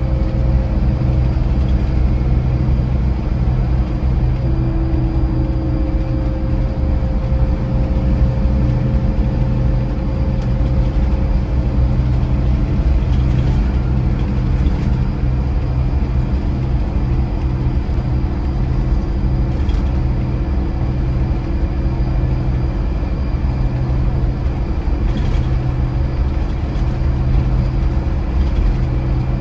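Scania Irizar i4 coach's diesel engine running steadily with a constant low drone, with a few faint ticks or rattles now and then.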